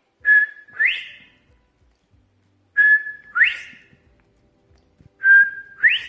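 A man whistling an imitation of the northern bobwhite's "bob-white" call three times, each a short level note followed by a sharply rising one.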